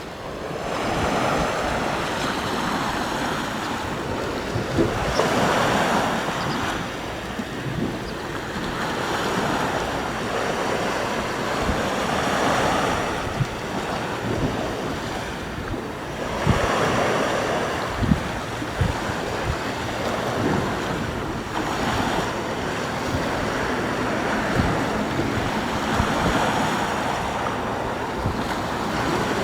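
Sea waves washing onto the shore, swelling and falling back every four to five seconds, with wind buffeting the microphone in low thumps.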